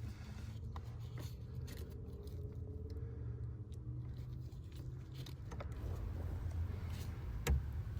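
A few faint clicks and scrapes of hand work over a steady low rumble.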